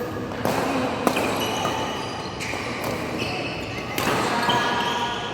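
Badminton rackets striking a shuttlecock during a rally, about four sharp hits spread a second or so apart.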